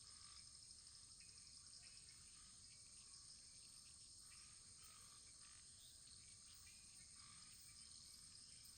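Very faint wood fire crackling, with small scattered pops over a steady high-pitched hiss.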